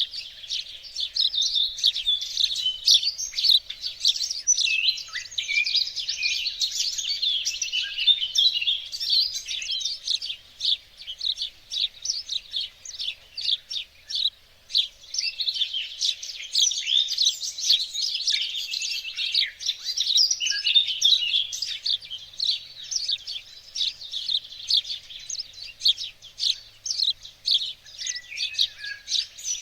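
Several songbirds singing and chirping at once, a dense, continuous chorus of quick high chirps and trills.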